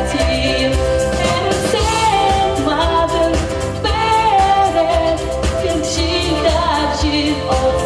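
A song with a sung melody over a steady beat and bass, in an Asian folk-pop style.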